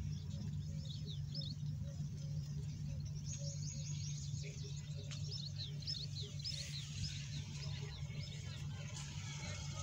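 Small birds chirping, a run of short, high, quickly falling notes repeated many times, over a steady low hum.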